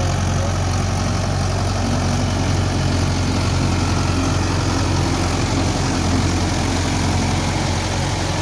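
Tractor engine running steadily, pulling a rotavator through the soil.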